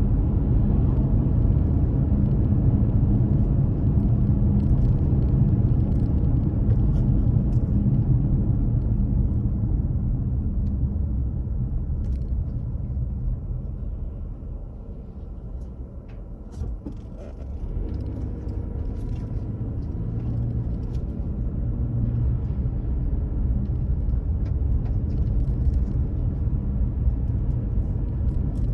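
Car driving, with a steady low rumble of engine and road noise. The rumble eases off about halfway through, then builds again as the car speeds up.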